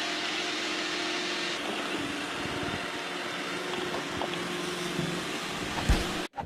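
Steady machine noise: a constant hum over a hiss, like a running motor. A short knock comes near the end, and the sound then cuts off abruptly.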